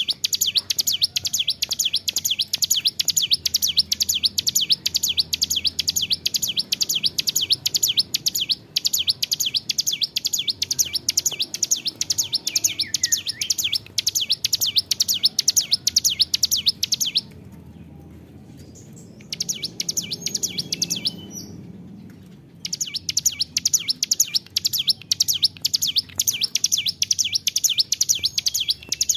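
Ciblek gunung (a mountain prinia) singing a long, unbroken run of rapid, high repeated notes, pausing about 17 s in, a short phrase, another pause, then resuming.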